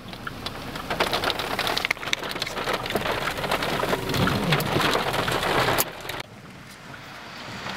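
Heavy rain, a dense rapid ticking of drops striking the car and the microphone. It drops much quieter about six seconds in, then builds again near the end.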